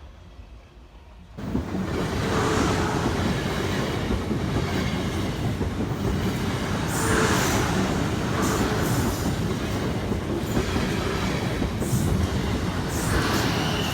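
Train passing close by, its wheels running loudly over the rails with a rumbling clatter. It starts abruptly about a second and a half in.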